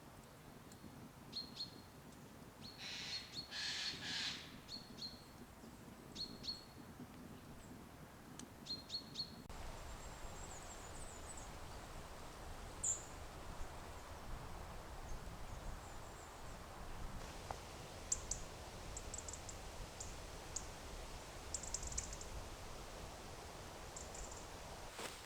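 Small birds chirping in short high calls over a faint steady hiss. The calls sit lower for the first third, then, after an abrupt change in the background, come higher and more scattered.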